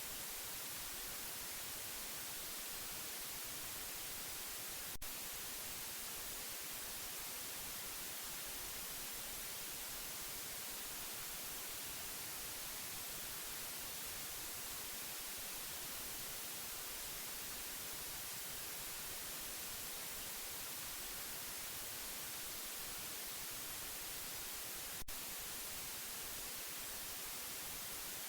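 Steady white noise hiss for lulling a baby to sleep, with two faint clicks, one about five seconds in and one about three seconds before the end.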